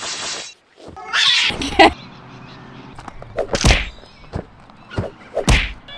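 Cat yowls mixed with hard thuds of strikes landing on a freestanding punching bag, three heavy hits about two seconds apart.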